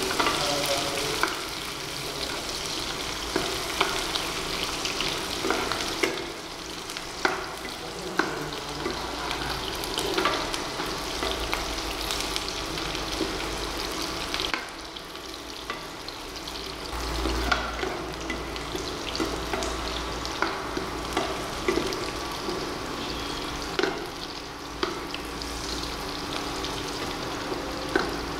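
Sliced onions and curry leaves sizzling in hot oil in a nonstick kadai, stirred with a perforated steel spatula that scrapes and taps against the pan at irregular moments.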